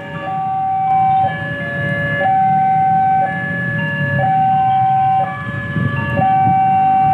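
Railway level-crossing warning alarm sounding a two-tone high-low signal, each tone held about a second, warning that a train is approaching the crossing. Idling road traffic makes a low rumble beneath it.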